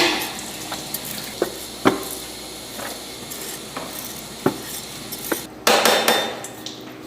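Kitchen clatter from food preparation: about seven separate sharp knocks of utensils against containers, then a short burst of hiss about six seconds in.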